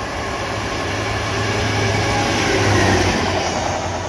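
South Western Railway electric multiple unit running through the station: a steady low hum with a rushing rumble of wheels that builds to its loudest about three seconds in, then eases.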